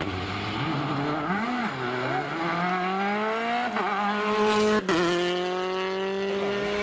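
Rally car engine under hard acceleration, its pitch climbing through the revs. It breaks off sharply about five seconds in, then carries on, slowly rising again.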